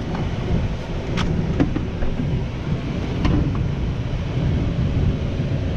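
Wind buffeting the microphone as a steady low rumble, with a few faint clicks about one, one and a half, and three seconds in.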